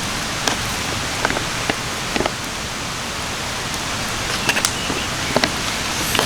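Campfire cooking: a steady hiss with scattered sharp crackles and pops, a few a second.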